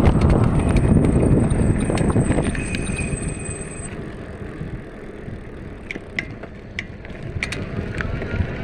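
Bicycle riding: wind rumble on the microphone, loud at first and easing off after about four seconds, with a few sharp clicks and ticks from the bike later on.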